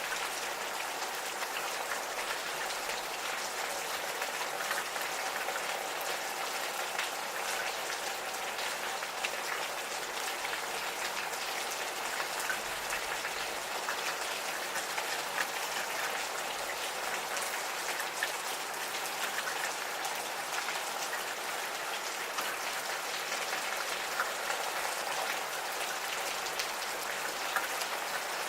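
Gentle steady rain, a soft hiss of falling rain with many close drops pattering and ticking on surfaces.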